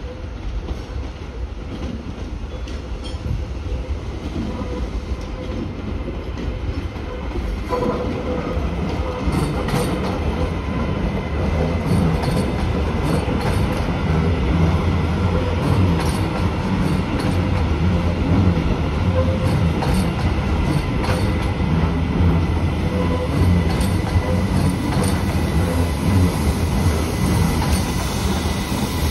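TransPennine Express Class 397 electric multiple unit running slowly past over pointwork: a low wheel rumble that grows louder over the first dozen seconds as the train draws near, then holds. A steady whine runs under it, with scattered clicks of the wheels over rail joints and points.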